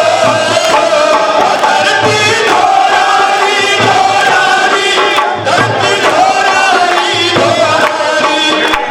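Devotional Shyam bhajan singing with a steady drum beat keeping time underneath.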